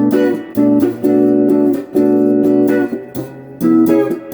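Donner DST-124 Les Paul-style electric guitar on its neck pickup, played clean through a Crate GX15R amp: a series of strummed chords, each ringing out for a moment before the next.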